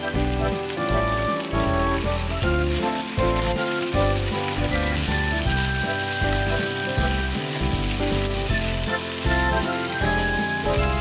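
Pork, potatoes and onions sizzling in a frying pan as they are stirred, with background music that has a steady bass pattern.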